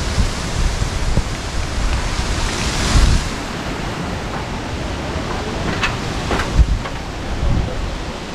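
Storm wind and rain making a steady rushing noise, with gusts buffeting the microphone and swelling about three seconds in. A few brief knocks sound about six seconds in.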